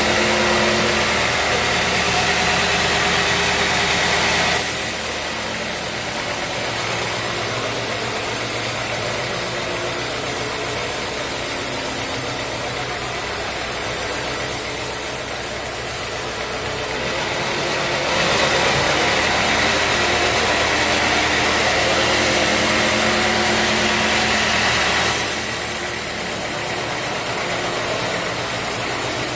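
Band sawmill running steadily with its engine, getting louder and brighter in two stretches: from the start to about four and a half seconds in, and again from about eighteen to twenty-five seconds in.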